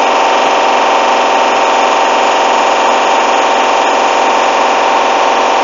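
Hoover washing machine spinning at high speed on its final spin, up to 1400 rpm: a loud, steady whir with several steady tones layered in it. The uploader reports the load as badly unbalanced on this spin.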